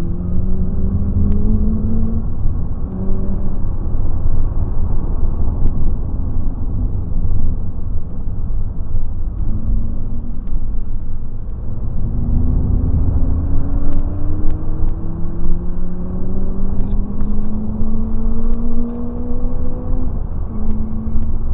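BMW car engine heard from inside the cabin while driven hard on a racing circuit, over a low rumble. The engine note rises through the revs and drops at gear changes: one long climb in the second half, with an upshift near the end.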